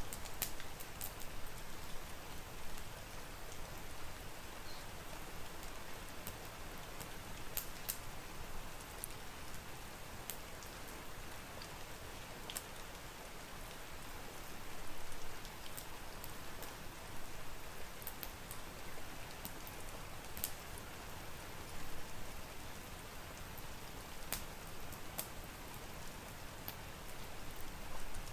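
Steady rain, with scattered sharp pops and crackles from a wood fire in a fireplace.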